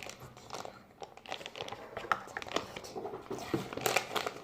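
Crinkling and a rapid, irregular scatter of small clicks from hands handling slime-making materials.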